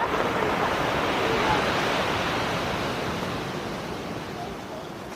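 Storm surf on the sea shore: a loud rushing wash of breaking waves that builds over the first second or two and eases off toward the end.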